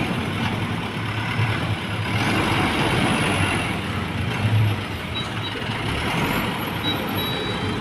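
Hino Dutro dump truck's diesel engine running steadily under a broad rushing noise while the truck unloads its sand.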